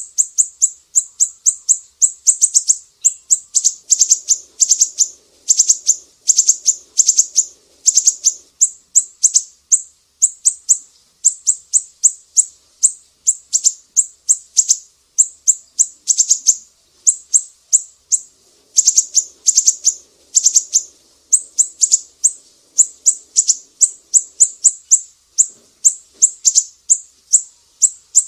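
Sumatran siri-siri songbird singing a fast, continuous series of sharp, high chirps in bursts, with a brief pause about two-thirds of the way through.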